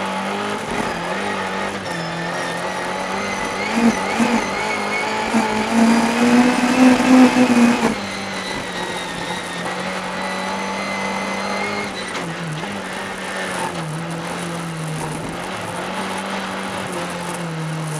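Volkswagen Beetle race car engine running hard. About three seconds in its pitch climbs and it gets louder, then it drops back abruptly about eight seconds in and runs on steadily.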